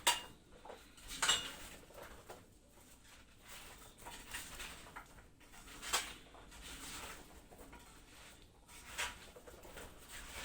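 A spoon and bowl clinking against a tray a few times, with soft scraping and rustling between, as mixed spices are put onto raw potato wedges.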